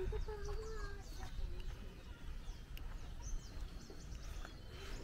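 Small birds chirping faintly and on and off in the trees, over a steady low outdoor rumble.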